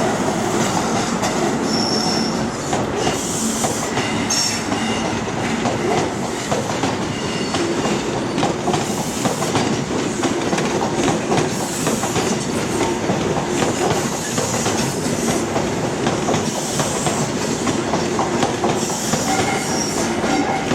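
LNER High Speed Train (HST) departing and running past, its diesel power cars working and its wheels clacking steadily on the rails, with a few brief high wheel squeals in the first few seconds.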